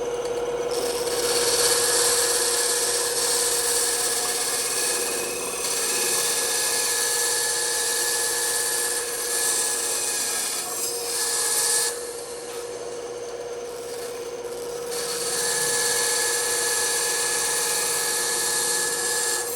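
Bandsaw running with a steady hum, its blade cutting through wood with a loud hiss. The cutting noise starts about a second in, drops away for about three seconds near the middle while the saw runs on, then resumes until near the end.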